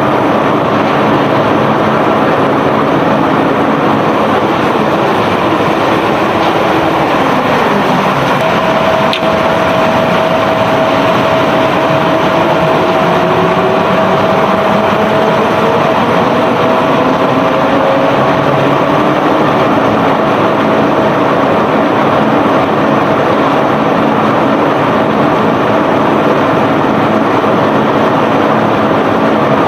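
Self-unloading barge's unloading machinery running loud and steady. A steady whine joins about a quarter of the way in, and a pitch falls and then slowly rises as the machinery changes speed.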